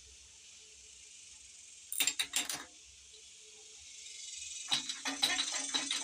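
Metal parts of a Dodge 360 V8's valvetrain clinking and rattling in two short bursts, about two seconds in and again near the end, as a rocker shaft that is stuck is worked loose from the cylinder head. Insects chirr steadily throughout.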